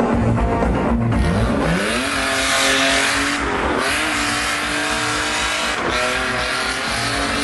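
A car engine revving hard, its pitch rising three times, with a long tyre screech, over loud music.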